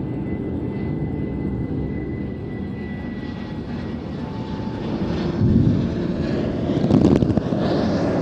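An Airbus A321neo airliner's twin jet engines during a display flypast: a steady rushing roar that swells about five and a half seconds in and again around seven seconds, growing louder towards the end.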